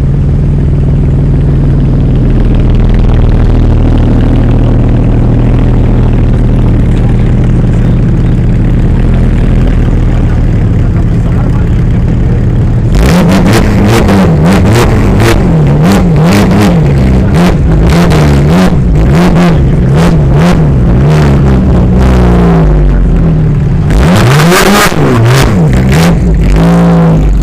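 Porsche's engine idling loudly with a steady low rumble, then from about halfway revved again and again in quick blips, a little more than one a second, its pitch rising and falling, with sharp cracks from the exhaust between revs, thickest near the end.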